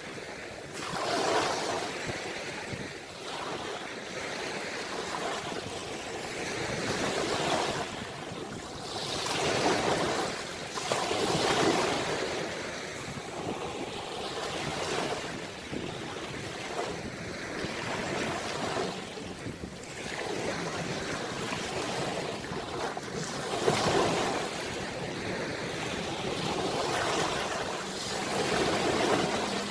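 Ocean waves washing onto the shore: a continuous rush of surf that swells and falls as each wave comes in every few seconds.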